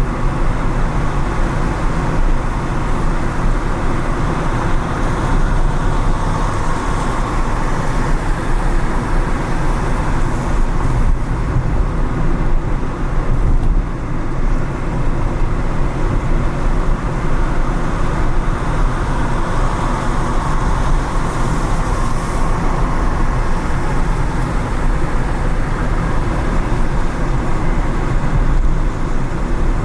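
A car driving on rain-wet city streets: steady road and tyre noise over a low engine rumble, with surrounding traffic.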